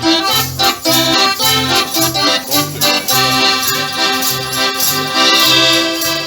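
A live band plays a song's instrumental introduction, led by an accordion over a steadily bouncing bass line with regular percussion strikes on the beat.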